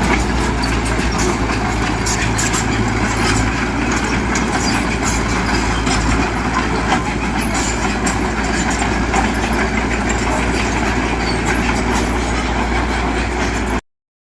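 Heavy earthmoving machine's diesel engine running steadily, with frequent sharp clicks and clanks over it; the sound cuts off abruptly near the end.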